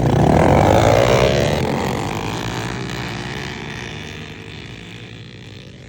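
Several pit bike engines revving hard as the bikes pull away together, loudest about a second in, then fading steadily as they ride off.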